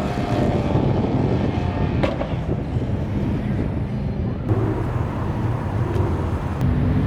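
A car engine running steadily with a low hum, over general vehicle noise.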